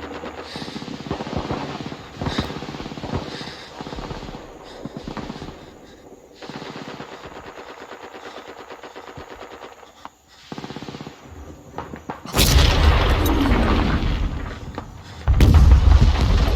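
Film battle soundtrack of WWII-era small-arms fire: scattered shots and a stretch of rapid automatic fire, then two sudden, much louder blasts near the end.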